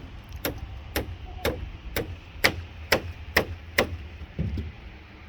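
Hammer driving a nail into fence wood: about nine steady strikes, roughly two a second, stopping about four seconds in.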